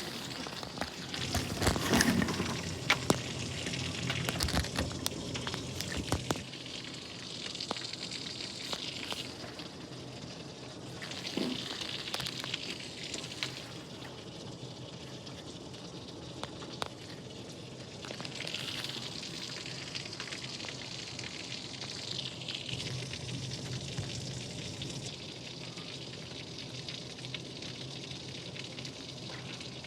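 Rain falling steadily, a crackling hiss, with a flurry of sharper clicks and knocks over the first six seconds.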